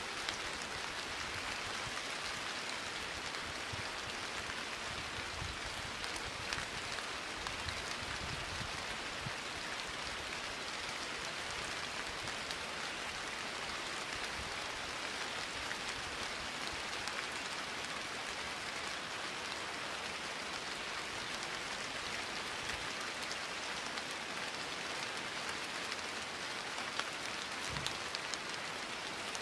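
Rain falling steadily: an even hiss with scattered drop taps.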